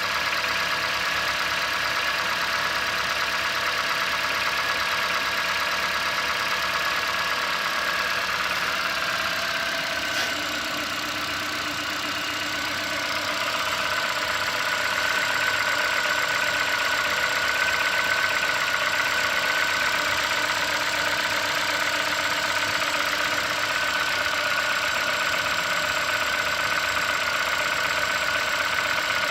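2017 Ford Fiesta's 1.6-litre four-cylinder engine at its raised cold-start idle, running steadily with a high whine over it. The whine drops a little in pitch about ten seconds in.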